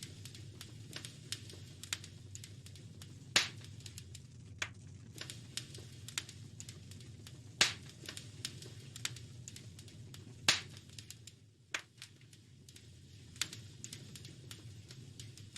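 Wood fire in a fireplace crackling: irregular small snaps and ticks with three louder pops spread through, over a steady low rumble.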